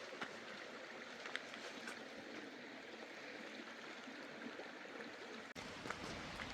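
Steady rushing noise like running water, with a few faint ticks, and a sudden change in the background noise late on.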